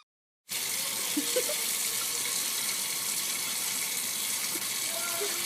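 Steady rush of running water, starting abruptly about half a second in, with a few faint short squeaks over it.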